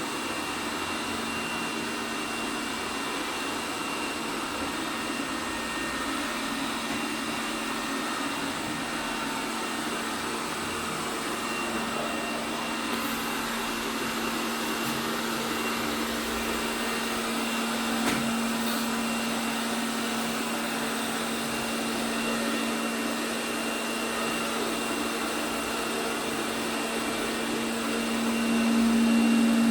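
ELARI SmartBot Lite SBT-002A robot vacuum running steadily: an even suction whoosh with a constant motor hum. There is a single knock about two-thirds of the way through, and the sound grows louder near the end.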